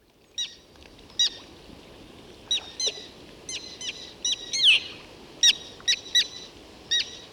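Common tern contact calls: about a dozen short, sharp notes at irregular intervals, with one longer, falling call about halfway through, over a faint steady background hiss.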